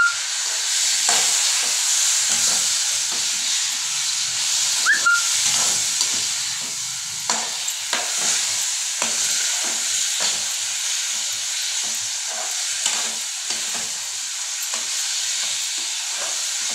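Fried fish pieces, potatoes and tomato purée sizzling in oil in a nonstick kadai, with a spatula stirring them and scraping and knocking against the pan.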